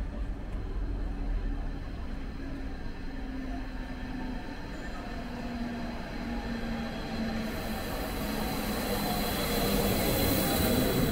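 A train running through the station: a steady low rumble with a faint hum, which grows louder as a rushing hiss builds in about two-thirds of the way through, with a thin high whine over it.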